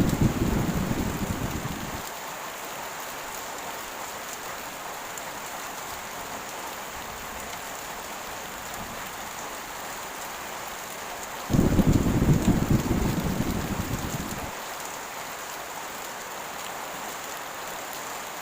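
Steady heavy rain, with rolls of thunder. One thunder roll is dying away over the first two seconds. Another breaks in sharply about eleven seconds in and rumbles off over about three seconds.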